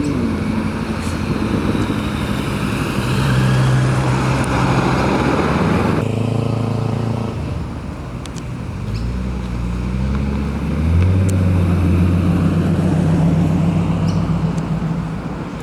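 Cars driving slowly past one after another at low speed, their engines running with a steady low note. A new engine note takes over about six seconds in and again near eleven seconds.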